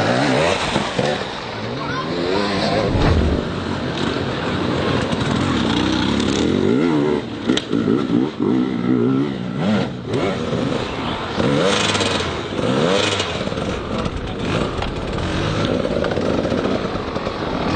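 Several motocross motorcycle engines revving, their pitches rising and falling and overlapping one another.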